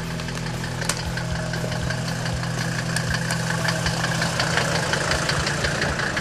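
Off-road vehicle engine running steadily, with scattered sharp clicks and knocks over it.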